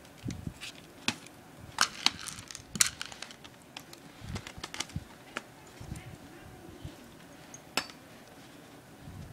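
Scattered sharp clicks and taps of hard plastic and metal as tools and parts are handled while a laptop is taken apart, with a few louder clicks about two and three seconds in and near the end.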